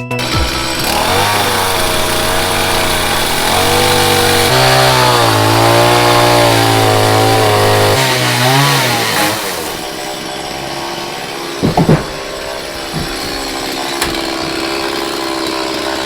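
Stihl MS170 two-stroke chainsaw cutting into a log wall, its engine pitch rising and falling under load for about nine seconds. It then drops to a quieter, steadier running, with a couple of loud sharp sounds a few seconds later.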